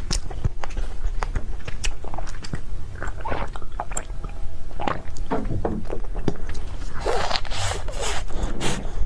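Close-miked eating of cake: bites and chewing with many short, sharp mouth clicks, and a longer rustle about seven seconds in.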